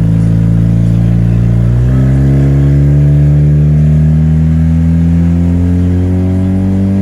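Mazda RX-8's 13B rotary engine, running without a catalytic converter or muffler, pulling under acceleration. Its pitch steps up about two seconds in, climbs steadily, then drops sharply at the very end.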